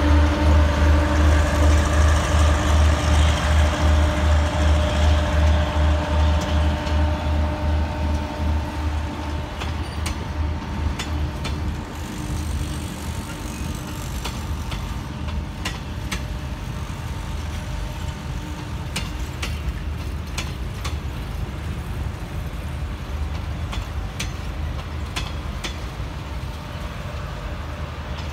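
Passing passenger train. The diesel locomotive's engine throbs fast and low at first, then fades over about the first twelve seconds as it pulls away. After that the carriages roll by with scattered sharp clicks from the wheels on the track.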